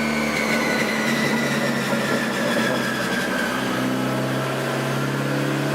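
Turbocharged B20V engine of a Honda Integra running on a chassis dyno at a fairly steady speed, with a high whine that slowly falls in pitch. The low engine note shifts slightly a little past halfway.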